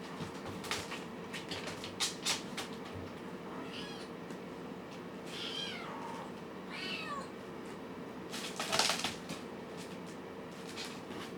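A kitten meowing three times in quick succession, thin high calls that fall in pitch, among short scratchy rustling noises, the loudest near the end.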